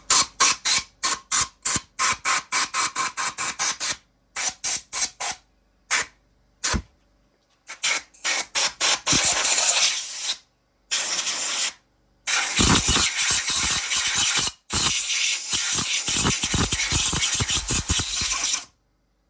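Hissing spray blasts on a freshly washed two-stroke cylinder. The first few seconds hold short bursts at about three a second; after that come longer blasts lasting a second or more, each cut off abruptly.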